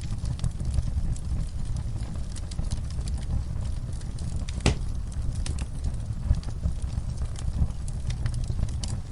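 Wood fire in a fireplace crackling: a steady low rumble with scattered sharp snaps and one louder pop about halfway through.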